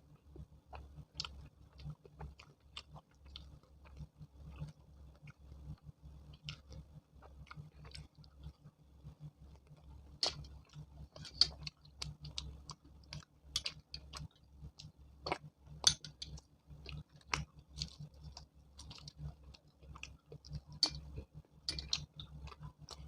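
Close-miked chewing of chole bhature: irregular wet mouth clicks and smacks, getting louder about halfway through, over a steady low hum.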